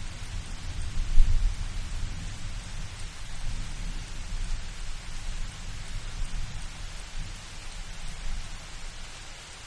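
Steady rain falling, with a low rumble of thunder that swells about a second in and slowly dies away.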